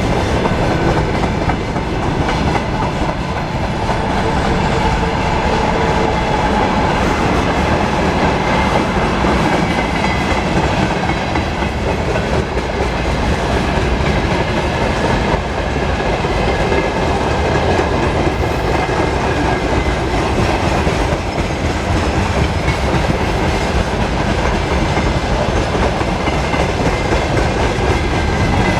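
Mixed freight train rolling steadily past, its wheels clacking over the rail joints.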